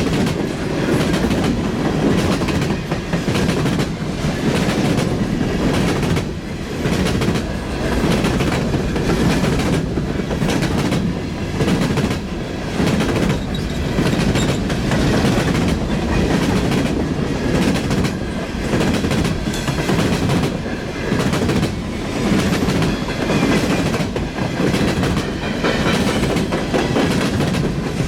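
Train cars rolling past at close range, a steady loud rumble with a regular beat of wheels clacking over the rail joints.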